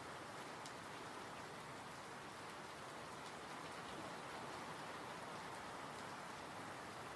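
Steady rain falling, with a soft even hiss and a few faint individual drop ticks.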